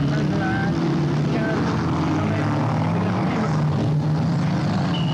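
Several stock-car engines running together in a steady drone as the cars jostle on the dirt track.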